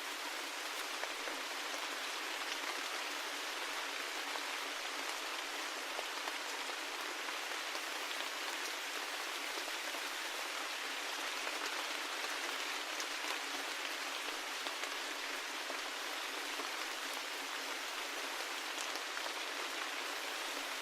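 Steady rain falling, an even hiss with scattered individual drops ticking, and no deep rumble beneath it.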